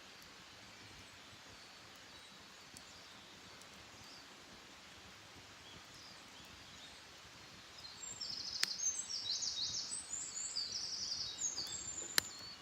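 A songbird sings a fast run of high, quickly repeated trilled phrases that start about two-thirds of the way in, over a faint steady outdoor hush with a few faint distant chirps before it. Two sharp clicks cut in, one during the song and one near the end.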